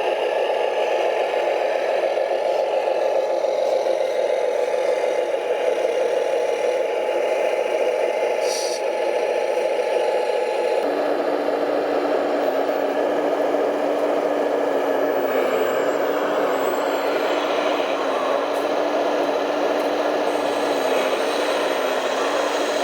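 Electric drive motors and gearboxes of radio-controlled construction trucks whirring steadily, with scraping and rattling. About halfway through the sound changes abruptly and a steady low hum joins in.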